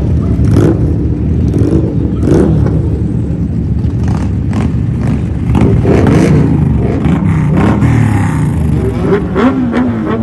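Superbike engine running loud through its exhaust, revving up and down in surges, with sharp cracks now and then.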